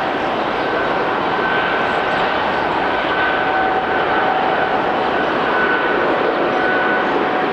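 Widebody airliner's jet engines running with a steady, loud rushing noise and a faint high whine held at one pitch.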